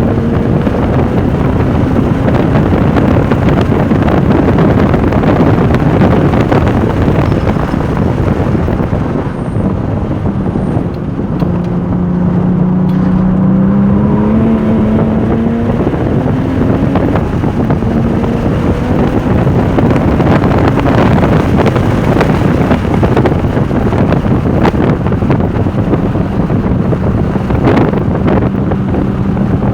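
Porsche 996 Turbo's twin-turbo flat-six driven hard at speed on a racetrack, with heavy wind and road noise. Engine pitch falls briefly near the middle, then rises again as the car accelerates.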